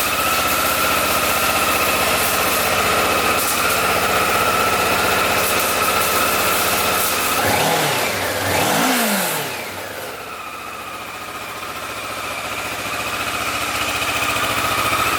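Kawasaki ER-6f's 649 cc parallel-twin engine idling steadily, then blipped twice in quick succession about halfway through. After the blips it drops back to a quieter idle that slowly swells again.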